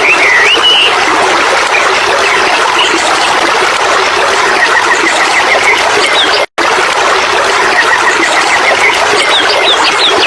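Steady rush of running water with birds singing over it: a few sweeping chirps near the start, then twice a quick run of short repeated notes. The sound cuts out for an instant about six and a half seconds in.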